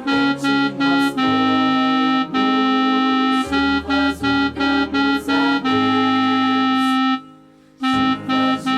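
Organ-like keyboard playing the contralto line of a four-part hymn, one held note after another over lower bass notes, with a short break about seven seconds in.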